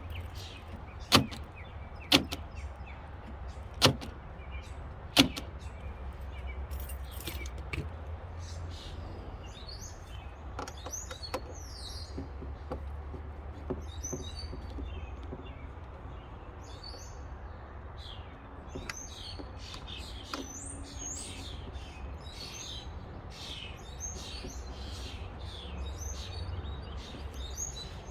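Four sharp clicks, one to two seconds apart, in the first few seconds, then small birds chirping again and again over a low steady rumble.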